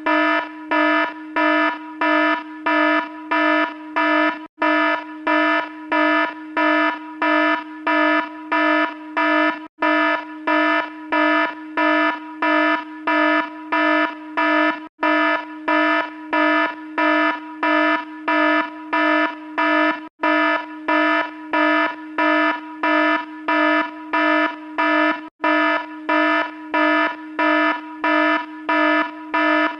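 Electronic alarm sound effect: a loud, low buzzy tone pulsing on and off about twice a second. A brief gap about every five seconds suggests the effect is looped.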